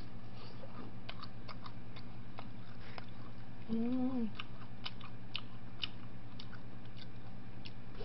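Close-up eating sounds: soft mouth clicks and smacks while chewing a forkful of food, with a short hummed "mm" about four seconds in, over a steady electrical hum.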